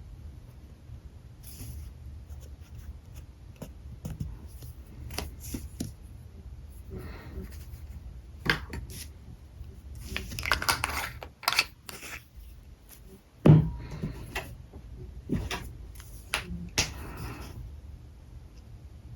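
Drawing with alcohol markers: short scratchy marker strokes on paper and the clicks and knocks of markers and caps being handled. The loudest is a sharp knock about thirteen seconds in, over a steady low hum.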